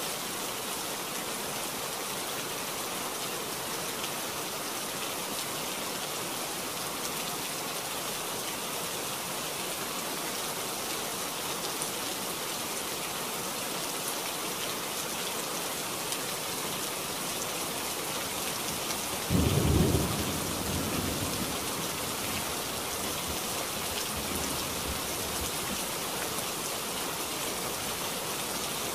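Heavy rain falling steadily, a dense even hiss. About two-thirds of the way through a sudden loud, low crack of thunder breaks in and rumbles away over a couple of seconds.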